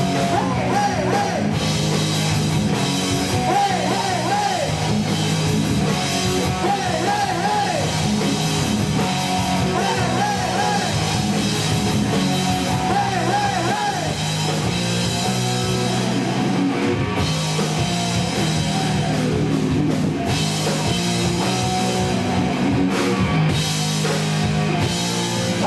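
A live rock band playing loudly, with electric guitar over bass and drums. It is a rough, poor-quality audience recording.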